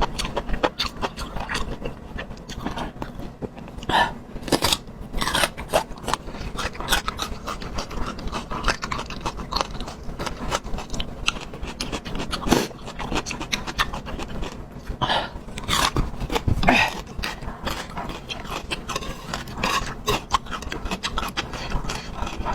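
A person chewing food close to the microphone, with many short wet mouth clicks and smacks at an irregular pace.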